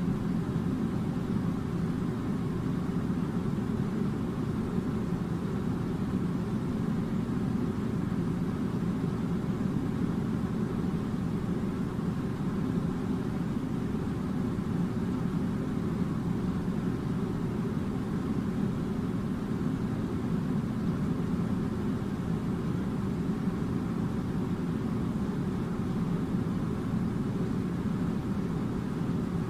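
Air conditioner running with a steady, low rumbling whoosh that holds even throughout.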